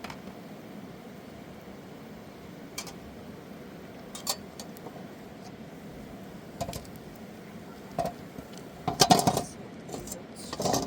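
Scattered light clinks and knocks, like household items being handled, with a cluster of louder knocks about nine seconds in and another just before the end, over a steady background hiss.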